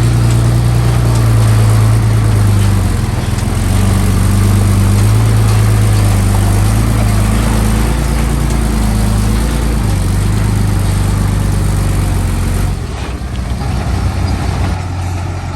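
Diesel engine of a Komatsu D31P crawler bulldozer running, its pitch shifting a little with load and throttle, then dropping lower about 13 seconds in.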